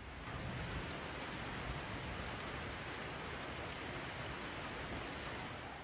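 A steady, even hiss of noise like rain, with faint scattered ticks, tailing off at the end.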